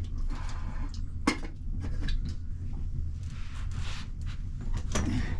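Scattered sharp clicks and knocks, like household items being handled, over a steady low hum.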